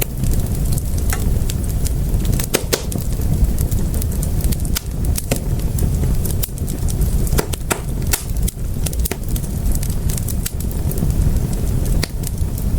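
Wood fire in a fireplace crackling, with irregular sharp pops and snaps over a constant low rumble of the flames.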